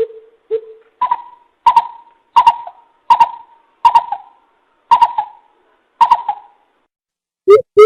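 Greater coucal calling: a series of separate hooting notes, roughly one every 0.7 s, the first two deeper and the rest higher. Near the end a faster run of deep notes begins.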